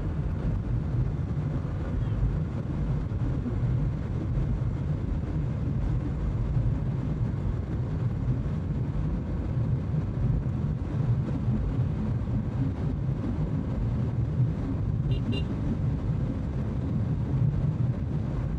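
Bajaj Pulsar 200 NS motorcycle cruising at a steady speed: a steady low engine and road rumble.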